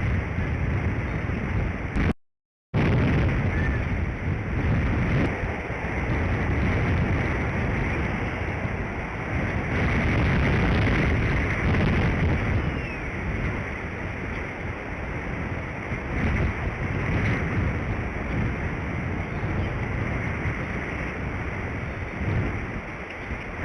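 Strong wind buffeting an outdoor microphone, rising and falling in gusts. The sound cuts out completely for about half a second about two seconds in.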